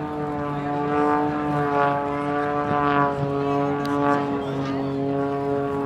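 Extra 330SC aerobatic plane's six-cylinder engine and propeller droning overhead, its pitch shifting slightly up and down as it maneuvers.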